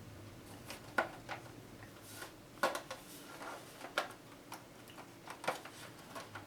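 Irregular light clicks and knocks of plastic parts and a screwdriver being handled while a boombox cabinet is taken apart, about a dozen sharp ticks spread unevenly.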